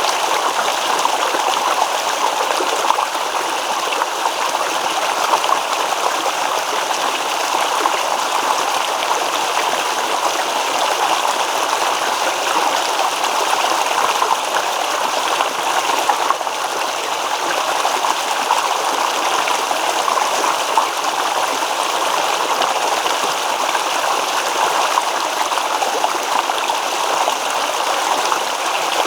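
Stream water babbling and trickling over stones, a steady rush with fine splashing detail.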